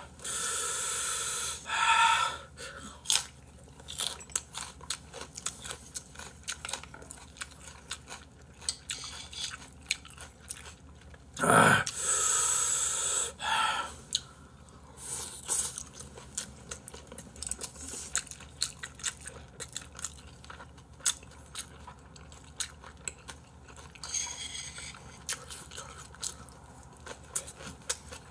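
Close-miked eating: chewing of duck and fried rice, with many small wet mouth clicks. Several longer breathy hisses cut in, the loudest about twelve seconds in.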